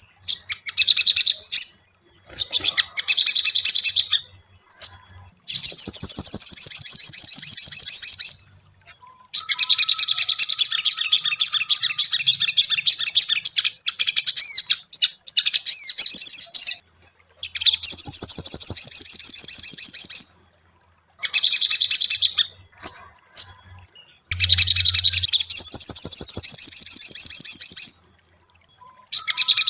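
Sogon (little spiderhunter) singing in rapid, high, chattering phrases that run for a few seconds at a time, with short pauses between them. It is a recorded song of the kind played to provoke captive birds into singing.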